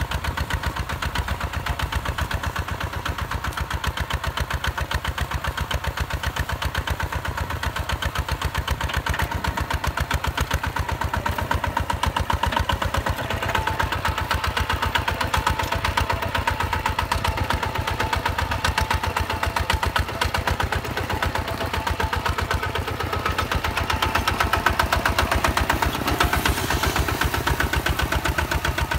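Diesel engine of a Hinota HG Gold 155 DI tractor running steadily, with a rapid even chug of firing pulses, a little louder near the end.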